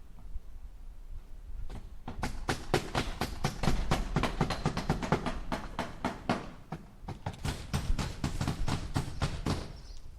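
Hammer striking nails into wood in quick repeated blows, about four or five a second. The hammering starts about two seconds in, eases briefly past the middle, and stops near the end.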